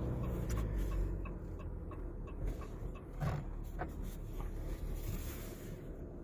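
Pickup truck engine running with a steady low rumble, with light ticks at fairly even intervals and a couple of knocks in the middle.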